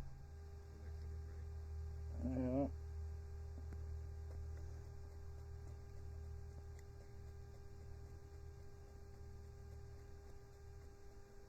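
A steady low hum, with a brief wavering voice-like sound about two seconds in.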